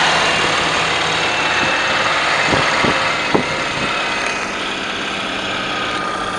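Vehicle engine running steadily with road noise, and a few short knocks about halfway through.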